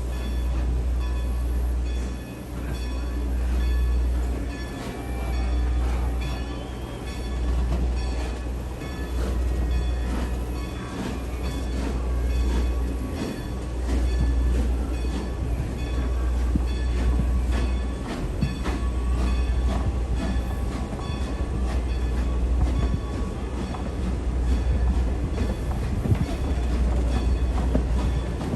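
Passenger train coach rolling along the track, heard from on board: a low rumble that swells and eases every second or two, with the wheels clicking over rail joints.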